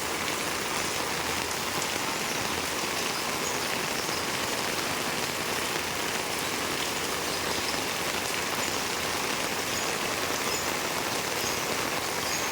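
Steady rain falling and pattering on surfaces, an even hiss with scattered drops.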